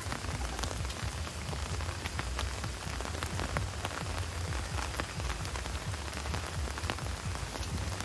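Heavy rain falling steadily, a constant hiss with many separate drop hits ticking through it.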